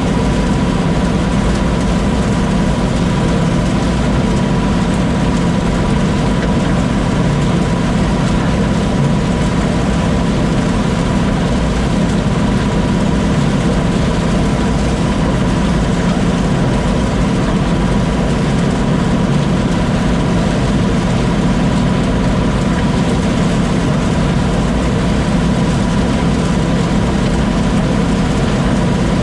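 Combine harvester running steadily: a constant engine drone with a thin, steady whine above it, unchanging throughout.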